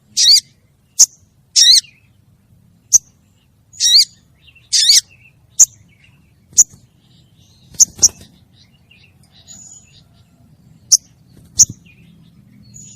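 Female sogon bird calling: a string of short, sharp, high chips and brief wavering whistled notes, about one a second and irregularly spaced. It is the female's call to a male, used as a lure call.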